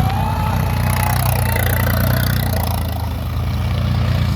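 Tractor diesel engine running steadily, its sound sitting low and even.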